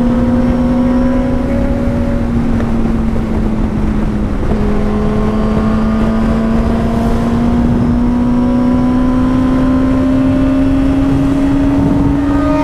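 Yamaha FZ6's inline-four engine running at highway speed, one steady engine note that climbs slowly, dips briefly about four and a half seconds in, then climbs again. Wind rush and road noise run underneath.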